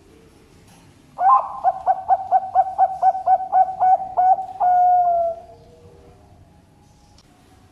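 Zebra dove (perkutut) singing: a quick rolling string of about a dozen short coos, then one longer held coo that sinks slightly and fades.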